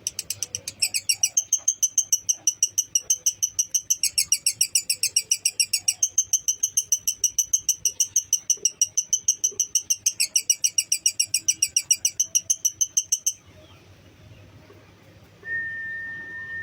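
Lovebird singing a long, fast, unbroken chattering trill (the 'ngekek' song) of about five to six harsh notes a second, which stops abruptly after about thirteen seconds. Near the end there is a single steady high tone lasting about two seconds.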